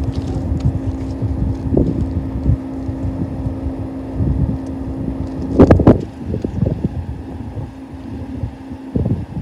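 Wind buffeting the microphone over the steady low drone of diesel locomotives hauling a freight train. There is a loud thump of wind or handling noise about six seconds in.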